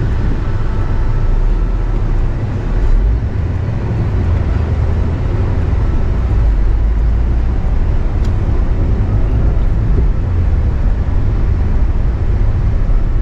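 Steady low engine and road rumble inside the cabin of a manual-transmission car being driven.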